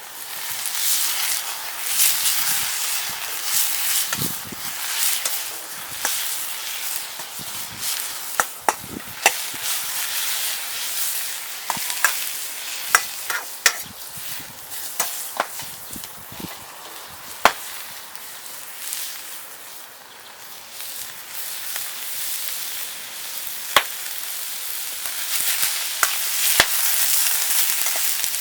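Food sizzling in a Chinese wok over a wood fire during stir-frying: a steady hiss that swells and eases, with sharp clicks and taps scattered through it.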